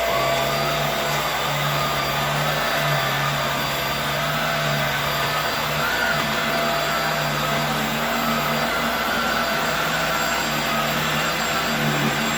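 Hoover Air Steerable WindTunnel upright vacuum running steadily at full power as it is pushed over a rug. A constant rush of air sits under a steady motor whine, with a lower hum that wavers.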